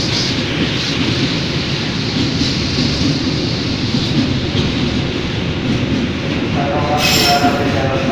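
Train running through the station with a steady heavy rumble of wheels on track. About six and a half seconds in, a sustained pitched tone with overtones joins it, and a short high hiss follows a moment later.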